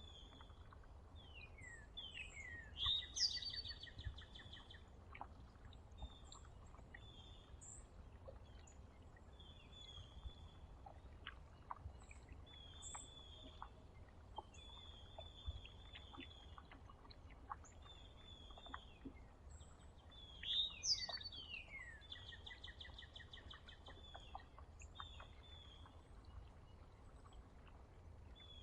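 Wild songbirds at a feeder, mostly short high chirps and calls. A louder song phrase of quick sweeping notes ending in a fast trill comes twice, about 3 seconds in and again about 21 seconds in, over a faint steady low outdoor rumble.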